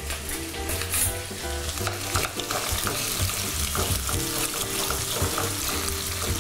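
Rabbit pieces with chopped garlic and rosemary sizzling in hot olive oil in a pan, stirred with a utensil that scrapes and taps against the pan now and then.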